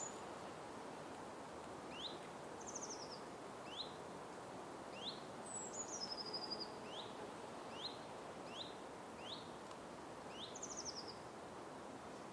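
Forest ambience: birds calling over a steady hiss of background noise, with short rising chirps repeated about once a second, two quick trills and one falling whistle about halfway through.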